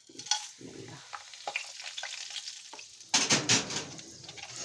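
Whole spices sizzling as they fry in hot oil in a pan, with scattered light clicks. The sizzle gets louder for about half a second around three seconds in.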